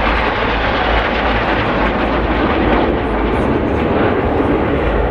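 Steady jet noise from the Turkish Stars' NF-5 jet fighters flying in formation, an even, loud rushing that holds without breaks.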